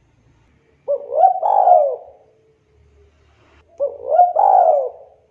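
Spotted dove (tekukur) cooing twice, about three seconds apart. Each coo is a short note followed by a longer note that rises and then falls in pitch.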